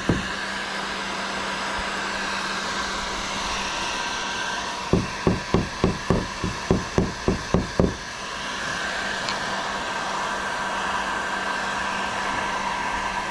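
Heat gun blowing steadily with a low hum, heating plastic. About halfway through comes a quick run of about ten dull taps, roughly three a second.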